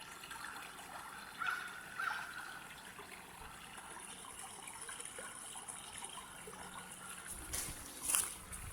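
Water trickling steadily, with two brief higher sounds about a second and a half and two seconds in, and a short knock near the end.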